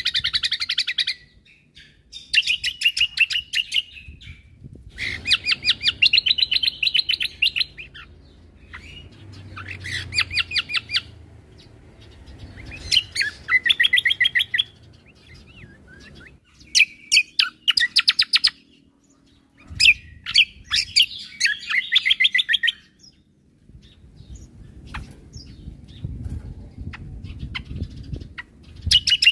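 Cucak kombo (kecial kombo) singing loud bursts of rapid, high chattering trills. Each phrase lasts one to three seconds, with short pauses between them, about eight phrases in all.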